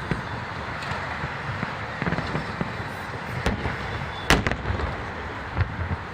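Fireworks display going off: scattered sharp bangs over a continuous noisy background, the loudest bang a little after four seconds in.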